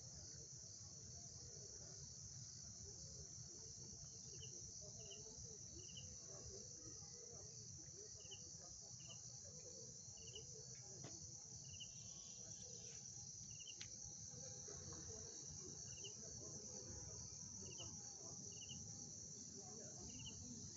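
Night chorus of crickets: a steady, high-pitched, unbroken trill, faint overall, with separate short chirps repeating every second or so and a low rumble beneath.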